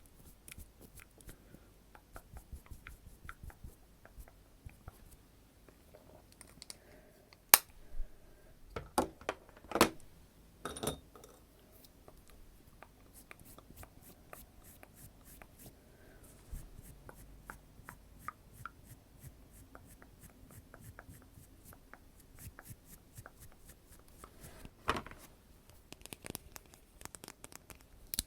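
Soft, close-miked clicks and taps, like ASMR mouth sounds and tapping on makeup items. A cluster of louder clicks comes about a third of the way in, and another single one near the end.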